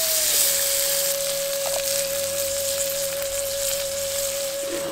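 Goat lung pieces sizzling in hot oil and masala in a clay pot, a dense steady hiss. Background music holds one long note underneath.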